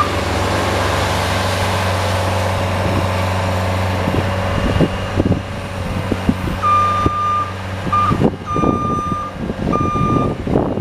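Snow-plowing vehicle's engine running steadily while its reverse warning beeps, a steady high tone repeating about once a second near the start and again in the second half, a sign the vehicle is backing up. Irregular knocks and clatter come in the second half.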